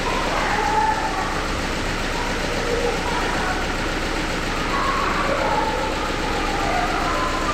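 Subaru Impreza's FB16 1.6-litre flat-four engine idling steadily, not revved. The owner hears something wrong in its sound but does not name the fault.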